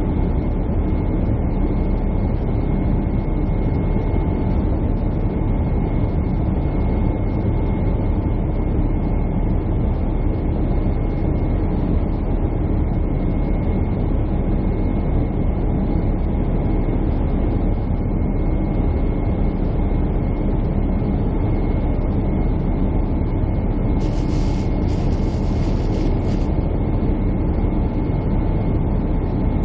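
Jet airliner cabin noise: a steady low roar of engines and airflow with a faint steady whine above it. About two-thirds of the way through comes a brief high hiss.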